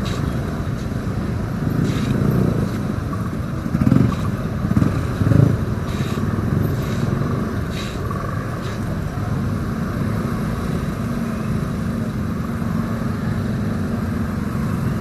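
Motorcycle engine running as it rides through slow traffic, a steady low rumble with a few louder swells about four to five and a half seconds in.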